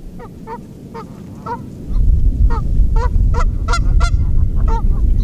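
Geese honking: a rapid series of short honks, several birds calling over one another, thickest around the middle. A low rumble sits underneath from about two seconds in.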